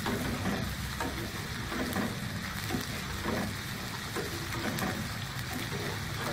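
Blended spice paste sizzling and bubbling steadily in hot oil in a wok as it is sautéed.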